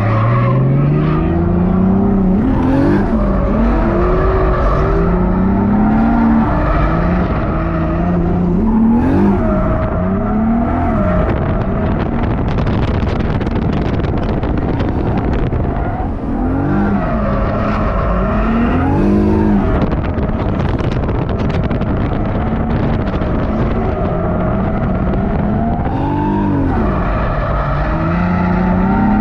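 Drift car engine revving hard, its pitch climbing and dropping again and again as it is driven through a drift, with tyre noise most dense around the middle.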